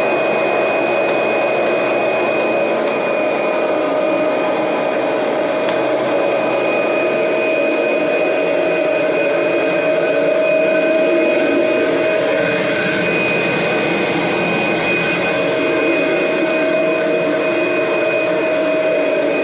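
Kirby Generation 3 upright vacuum running steadily on a hard floor in neutral, with the brush roll disengaged. The motor gives a constant whine over the rush of air.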